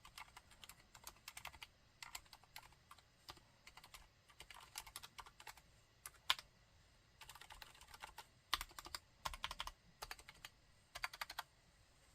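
Typing on a Mistel MD600 Alpha split mechanical keyboard fitted with Cherry MX Silent Red linear switches: quiet keystrokes in quick runs separated by short pauses, stopping shortly before the end.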